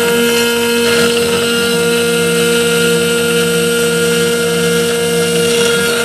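CNC 3040 desktop router milling 6082 aluminium: a steady spindle whine with several fixed tones over the noise of the cutter, and a lower motor tone that shifts and drops in and out as the axes move.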